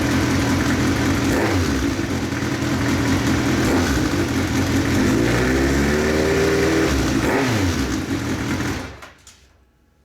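Kawasaki Z1000's water-cooled inline-four running through a Nojima Fasarm full-titanium exhaust, blipped from idle several times with one longer rev rising and falling around the middle. The sound stops about nine seconds in.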